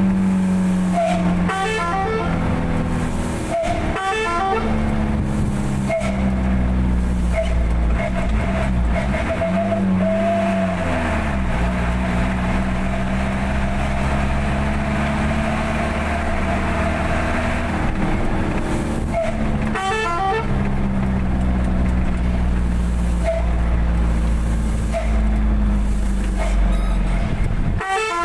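Truck engine running, its pitch shifting up and down as it drives, with several short horn toots.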